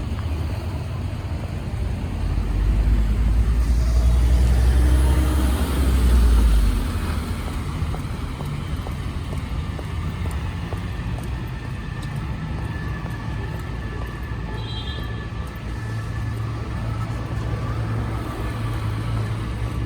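City street traffic in the rain: a heavy vehicle passes close with a deep engine rumble that swells a few seconds in and fades by about seven seconds, then the steady hum of traffic over a wash of noise.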